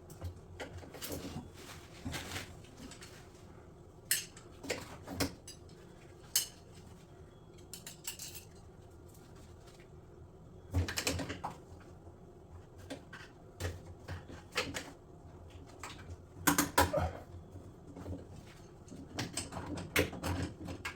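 Irregular clicks, knocks and metallic clinks of tools and metal and plastic parts being handled while an LG drum washing machine is taken apart or reassembled, with louder clusters of knocks about halfway through and again about two thirds of the way in.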